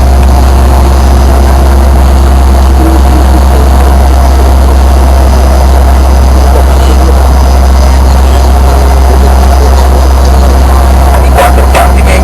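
Steady, loud low drone of cabin noise inside a Fokker 100 airliner, with faint steady tones above it. A few short knocks come near the end.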